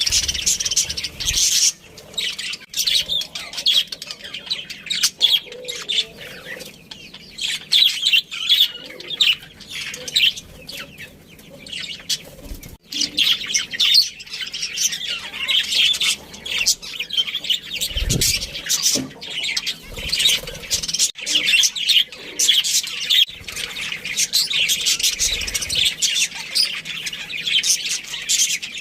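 A group of budgerigars chirping and chattering continuously, many high chirps overlapping.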